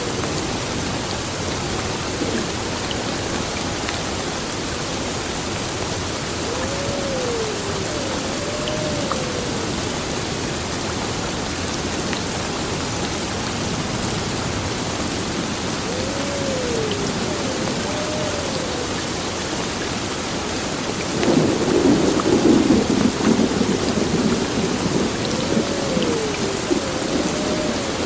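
Heavy rain falling steadily. About two-thirds of the way through, a rumble of thunder comes in suddenly and rolls on to the end. A faint pair of rising-and-falling tones recurs about every nine seconds.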